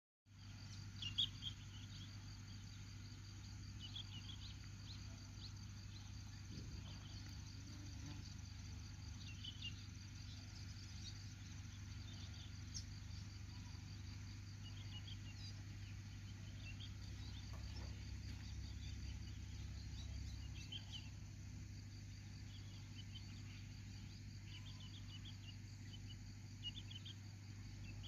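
Faint outdoor nature ambience: short chirps come in small clusters every second or few over a steady low hum.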